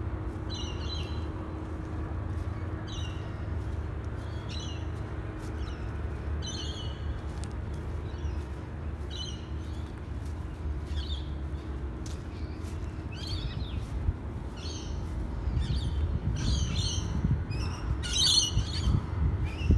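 Birds chirping, a short high call about once a second, louder near the end, over a low rumble.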